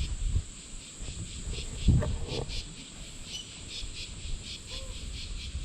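Insects chirping: a steady high-pitched whine with a pulsing chirp about three times a second over it. A low rumble rises briefly about two seconds in.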